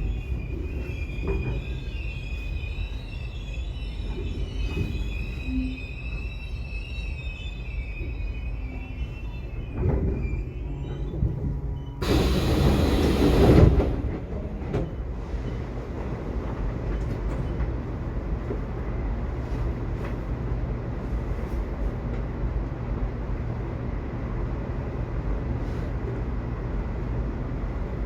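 Subway train running, its steel wheels squealing in high tones for the first ten seconds or so over a low rumble. About twelve seconds in, a loud rushing burst lasts roughly two seconds, then a steady low rumble remains.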